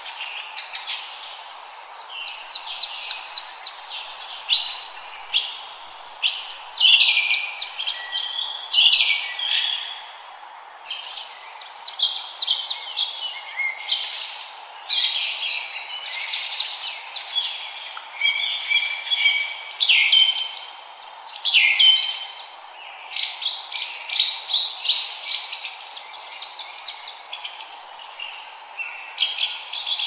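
Many birds chirping and calling at once: a dense, unbroken chorus of short, high, overlapping calls over a steady background hiss.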